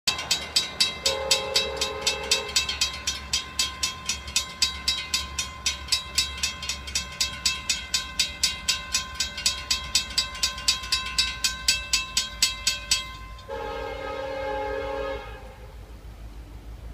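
Railroad grade-crossing bell ringing fast and even, about three or four strokes a second, then stopping near the end. A freight locomotive's air horn sounds a chord twice over it, a short blast about a second in and another just after the bell stops.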